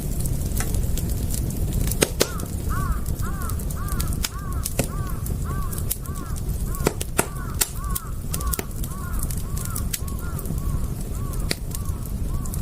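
Crackling fire: frequent sharp pops and snaps over a low rumble. From about two seconds in, a bird calls over and over in short arched notes, about two a second.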